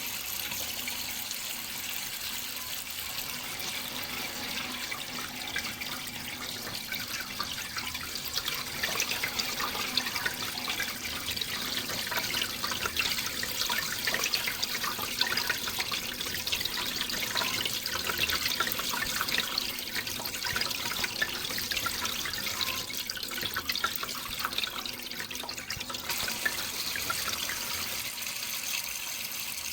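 Running water splashing and trickling steadily, a little busier and louder through the middle.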